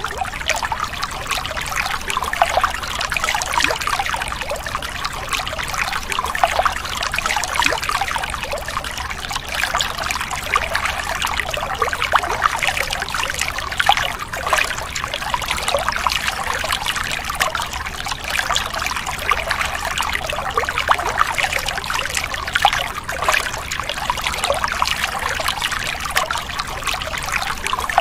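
A thin stream of water poured onto sand-caked plastic toy vehicles, trickling and splashing steadily as it washes the wet sand off them.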